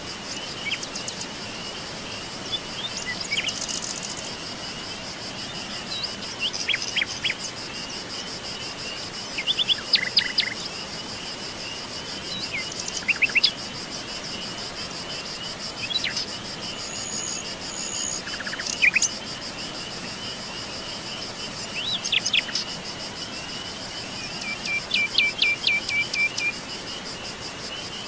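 Forest birds chirping in short, scattered calls over a continuous high insect trill, like crickets.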